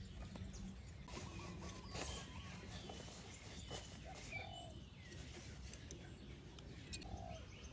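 Faint rural outdoor background with two short, low bird calls, one about four and a half seconds in and one about seven seconds in.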